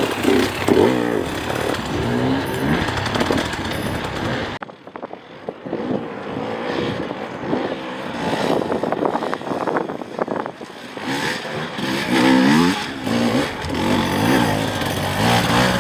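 Off-road enduro motorcycle engines revving up and down in short rises and falls of pitch. About four and a half seconds in the sound changes abruptly to a quieter stretch of rapid knocks and clatter, and the revving returns near the end.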